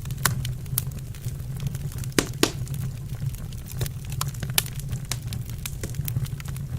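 Wood fire burning in a fireplace: irregular sharp crackles and pops over a steady low rumble of the flames, with two louder pops a little after two seconds in.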